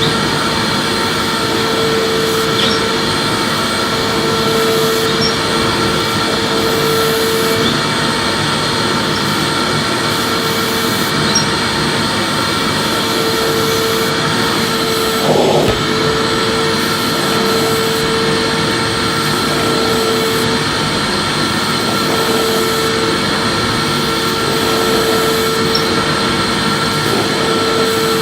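Electric vacuum cleaner running steadily, a rush of air with a steady whine over it, being vacuumed with. A humming tone fades in and out several times, and there is a single short knock about halfway through.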